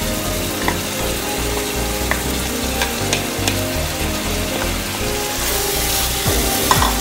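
Beef frying in an aluminium pot, sizzling steadily as ground chicken liver is added and stirred in with a wooden spoon. Scattered light clicks of the spoon and bowl against the pot.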